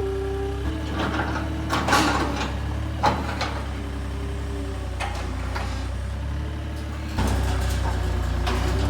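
Tractor engine running steadily, with a few sharp metal clanks in the first half. The engine gets louder about seven seconds in, as it takes more throttle or load.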